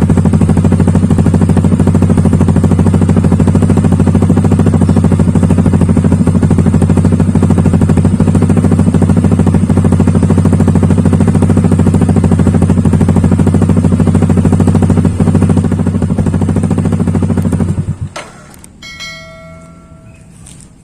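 Yamaha NMAX 155's single-cylinder engine running steadily at idle through an Akrapovic-style slip-on exhaust with no dB killer fitted, giving a loud, bassy note. It cuts off abruptly about three seconds before the end.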